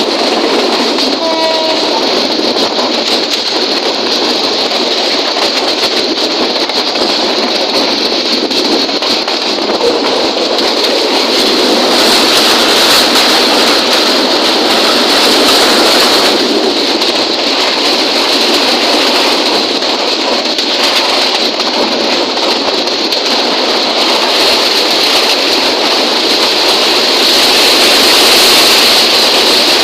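A train running on the rails: a steady, loud rushing noise from the moving train that holds throughout. A short faint tone sounds about a second and a half in.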